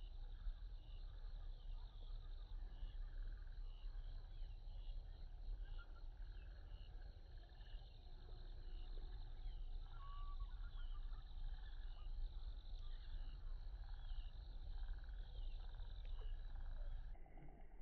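Faint outdoor ambience: a small animal chirping over and over, about one to two short calls a second, over a low steady rumble. Near the end the high chirping cuts away abruptly.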